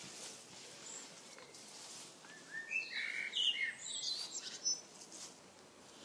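Songbird singing a short burst of chirps and whistled notes about two seconds in, lasting a couple of seconds, with a single high note just before.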